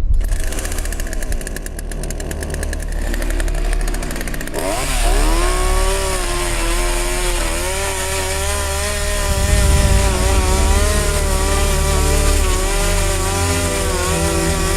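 Chainsaw starts suddenly and buzzes. About four and a half seconds in it revs up, its engine pitch dipping and rising as it bites into and cuts through a thick textbook.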